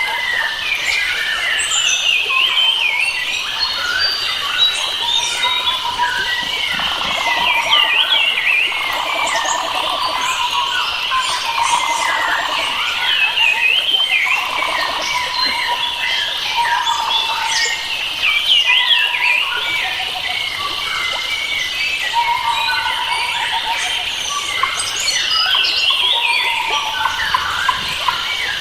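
A dense chorus of many wild forest birds singing and calling at once, overlapping chirps and whistles throughout, with a steady high-pitched drone beneath and a repeated lower trill.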